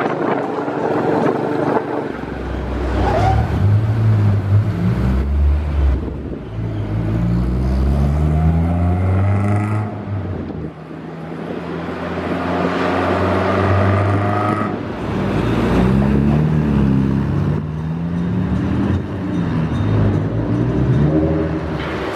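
Car engines accelerating, the engine note climbing in pitch and dropping again about five times, each climb lasting a few seconds.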